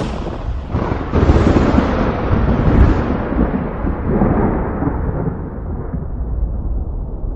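Thunder: a crack early on, then a heavy rolling rumble that peaks about a second in and again near three seconds, and slowly dies away, its higher sound fading first.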